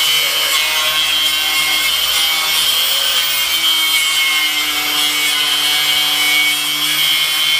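Power tool working the steel of a Land Rover Series III chassis. It runs continuously, a loud abrasive hiss with a steady high whine through it.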